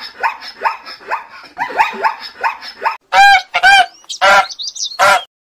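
Birds calling: a run of short, quick calls about three a second, then four louder, longer calls.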